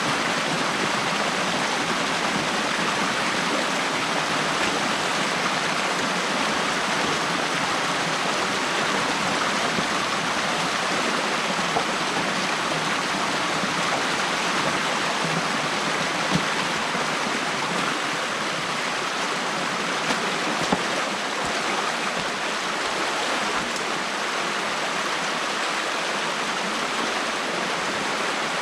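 Stream water rushing steadily through an opened beaver dam, with a few faint brief clicks near the middle.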